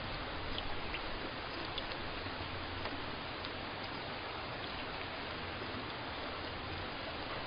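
Steady rain, an even hiss with a few faint drip-like ticks.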